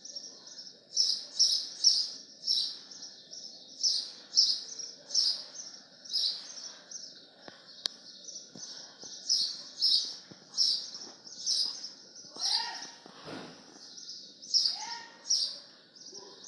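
A bird chirping over and over, short high chirps in quick runs. A lower call with several overtones comes in twice near the end.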